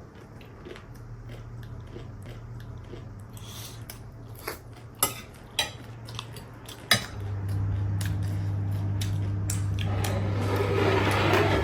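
Cutlery clinking against plates and bowls during eating, a few sharp clicks in the middle, over a steady low hum that gets louder about seven seconds in.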